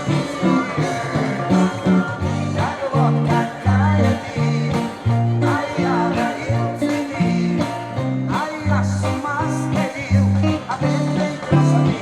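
A song sung with guitar accompaniment over a bass line that changes note about twice a second, the voice wavering in pitch on held notes.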